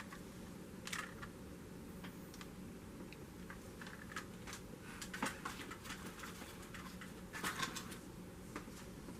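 Faint, scattered clicks and taps over a low steady hum, with small clusters of clicks about halfway through and again near three-quarters of the way.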